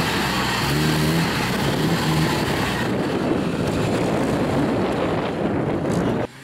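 Jeep Wrangler's engine revving in uneven spurts under load as it pulls through deep sand ruts, mixed with a heavy rush of noise; the sound cuts off abruptly near the end.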